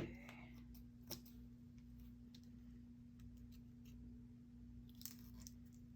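Near silence: room tone with a steady low hum, broken by a few faint, brief clicks about a second in and again around five seconds.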